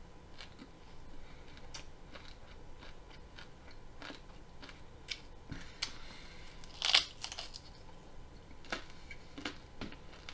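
Raw broccoli being chewed with irregular crisp crunches, and a louder crunch about seven seconds in as a fresh bite is taken from the florets.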